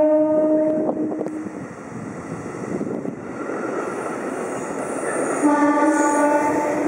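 JR East E651-series electric limited-express train passing through a station at speed. Its horn fades out about a second in, then the cars go by with a rushing rumble, and a second, shorter horn tone sounds about five and a half seconds in.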